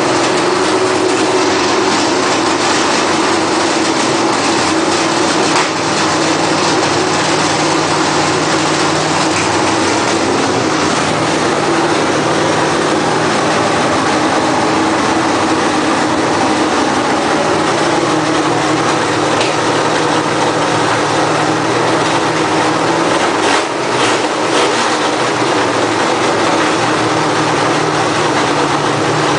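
1965 Ford Mustang's 289 cubic-inch V8 with a two-barrel carburettor and headers, running steadily at an even speed with no revving.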